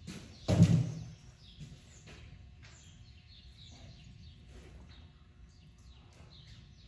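A single thud about half a second in, followed by birds chirping faintly over low background noise.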